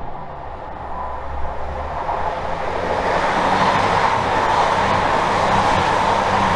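East Midlands Railway Class 222 Meridian diesel multiple unit passing through the station, growing steadily louder as it comes alongside. Its diesel engines hum under the noise of its wheels on the rails.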